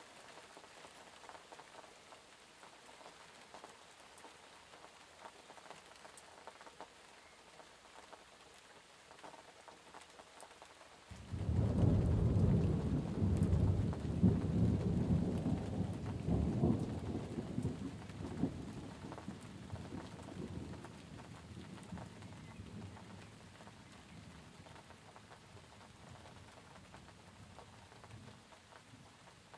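Steady rain falling, with a sudden peal of thunder about a third of the way in: a low rumble that swells for a few seconds and then slowly dies away over about ten seconds, leaving the rain.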